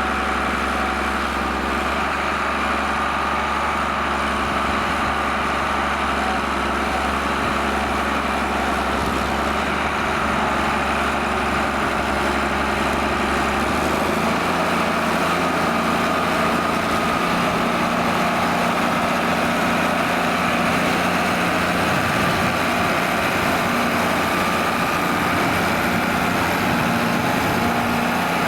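John Deere 4850 tractor's six-cylinder turbo diesel running steadily while pulling a six-furrow plough, its low note changing about halfway through.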